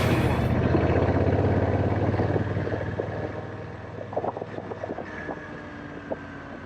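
Motorcycle engine running with a steady low hum that fades away over the first few seconds, followed by a few light clicks and knocks.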